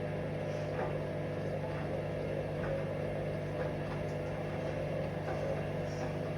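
Hoover Vision Dynamic washing machine running on a spin-only cycle: a steady motor hum with a soft knock about once a second as the drum turns.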